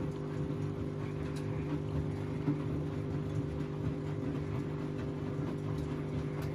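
Washing machine running, its motor giving a steady hum with several held tones over a low rumble from the turning drum.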